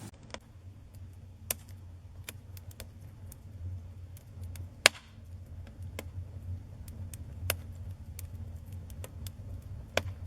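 Wood campfire crackling, with sharp pops scattered irregularly and one loud pop about five seconds in, over a low steady rumble.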